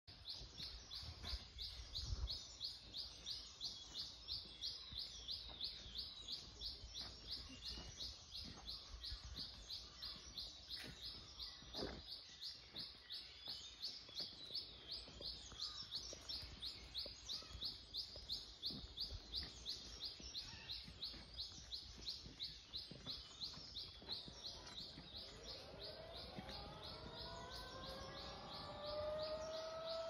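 High-pitched chirping of birds, one call repeated evenly about three times a second without a break. Near the end a rising whine with several tones joins in and levels off.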